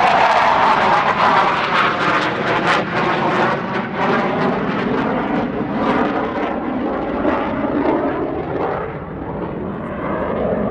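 Jet noise of an RCAF CF-18 Hornet's twin General Electric F404 turbofans as the fighter flies past. It is loud at first with a falling pitch over the first few seconds, then eases off toward the end.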